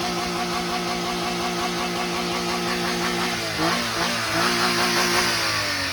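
Car engine running with dishwashing detergent in its crankcase instead of engine oil, still running without trouble. It holds a steady note, then about three and a half seconds in the pitch shifts, rises and falls off near the end.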